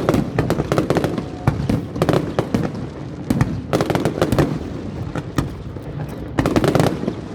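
Aerial fireworks bursting in rapid, irregular succession, a dense run of sharp cracks and bangs with thicker clusters about halfway through and near the end.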